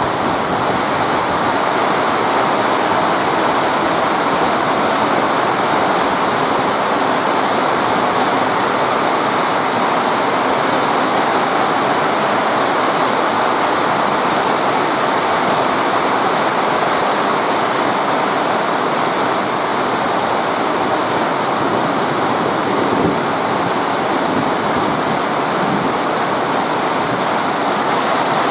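Very heavy rain pouring down steadily, a dense, even hiss.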